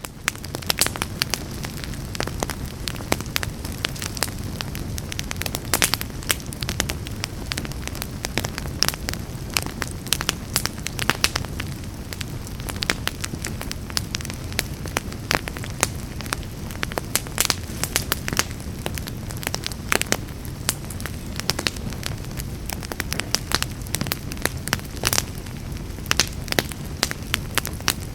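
Wood fire burning in a fireplace: dense, irregular crackling with frequent sharp pops over a steady low rumble of the flames.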